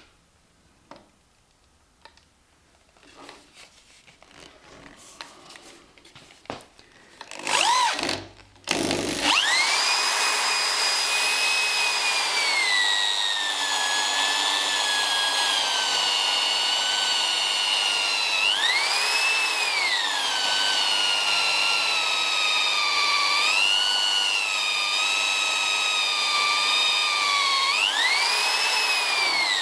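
Electric drill boring a hole into wood. After a few light knocks and a brief rev, the motor starts about nine seconds in and runs continuously, its whine dropping in pitch as the bit bites and loads it, then rising again a few times when the pressure eases.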